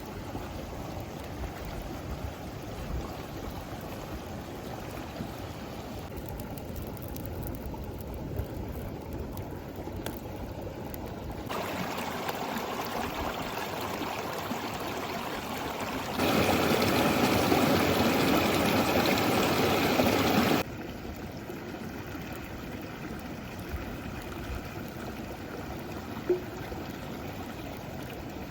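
River water flowing and rushing steadily, cutting abruptly between closer and farther takes; loudest for about four seconds in the middle.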